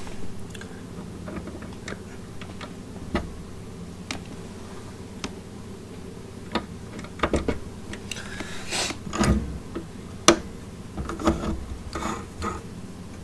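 Hands working the welder's wire-feed drive roll parts: scattered clicks and small knocks, busiest in the second half, with one sharp click about ten seconds in, over a faint steady low hum.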